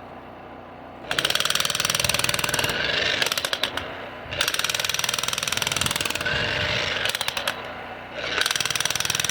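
Vevor electric demolition hammer chiselling into soil, starting about a second in and running loud in several bursts with short let-ups between them.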